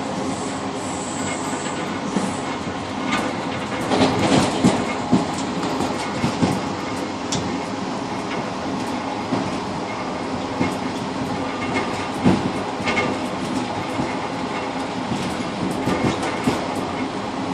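Passenger railcar rolling along the track, heard from inside the car's rear cab vestibule: a steady rumble of wheels on rail with irregular clacks as the wheels cross rail joints, some in quick clusters.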